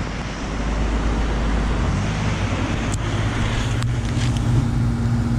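1984 BDP 5-ton heat pump outdoor unit starting in heat mode: a steady rush of fan air, with a low compressor hum building from about two seconds in and settling into a steady drone.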